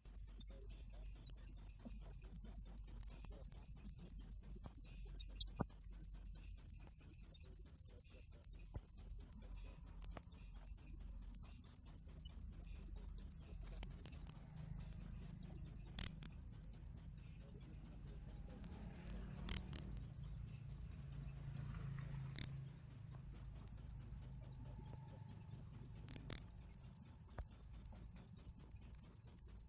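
Cricket chirping, high-pitched, in a steady even rhythm of about three to four chirps a second.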